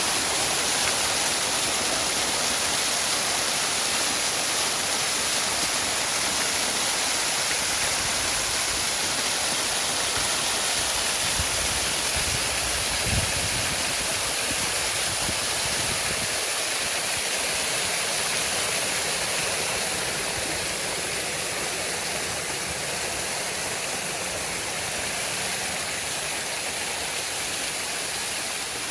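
Waterfall: a steady rush of falling water, with a few low knocks midway.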